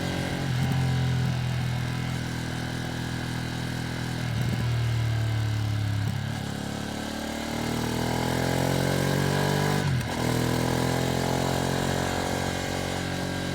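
Ducati Streetfighter V2S's 890 cc V-twin running under way, ridden gently during break-in. The revs fall off for a few seconds, then climb again to a brief break about ten seconds in as a gear is changed, and then hold steady.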